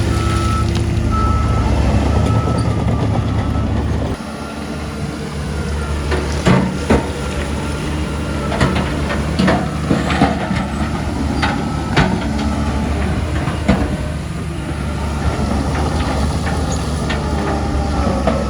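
Heavy diesel earthmoving machinery running, its steady engine sound dropping in level about four seconds in, with a few intermittent beeps at the start. From about six seconds in, a series of sharp metallic clanks and knocks rings out over the engine.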